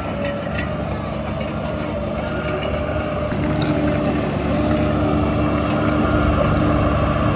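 Heavy construction machine's diesel engine running steadily, its pitch shifting and level rising a little under halfway through as it takes more load.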